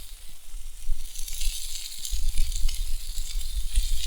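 Meat sizzling on a grill over a campfire, a steady crackling hiss with small pops, with wind buffeting the unshielded microphone in low gusts.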